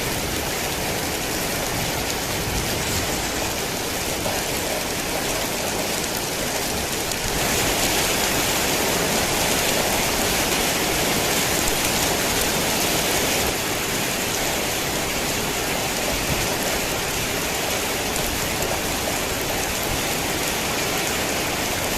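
Heavy rain falling steadily, a dense, even hiss of rain. It grows a little louder and brighter about seven seconds in, then eases back about six seconds later.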